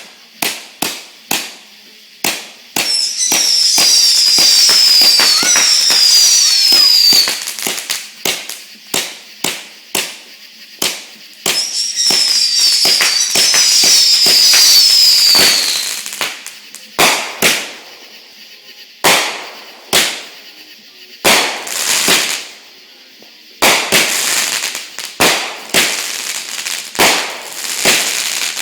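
Bling Bling consumer firework going off: a quick run of sharp pops, then two long stretches of hissing with shrill whistles that fall in pitch over and over, followed by more spaced bangs and crackles.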